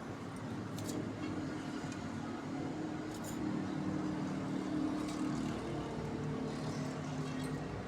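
A steady low mechanical hum, like a motor or passing traffic, swelling a little mid-way, with a few short high chirps scattered through it that fit the lovebirds.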